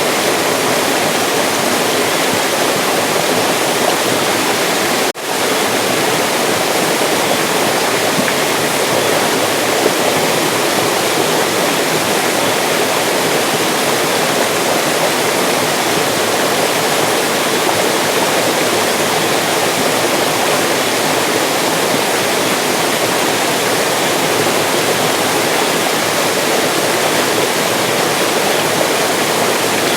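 Mountain stream flowing steadily, a dense, even rush of water. A momentary dip in the sound comes about five seconds in.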